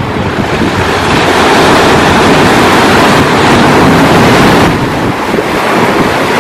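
Ocean surf breaking and washing ashore, with wind buffeting the microphone. The rush swells about a second in and eases slightly past the middle.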